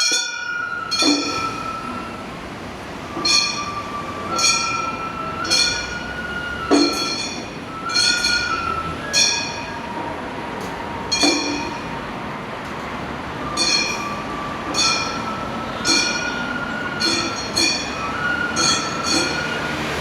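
Gion-bayashi festival music: small kane hand gongs struck about once a second, each strike bright and ringing, under a Japanese transverse flute holding long notes that step from one pitch to another.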